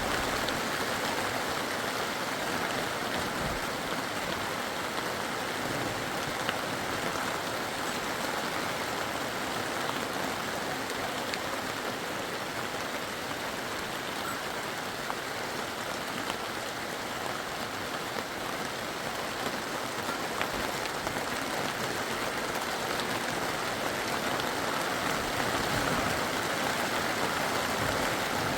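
Steady wash of water noise, even throughout, with a few faint scattered ticks like drops.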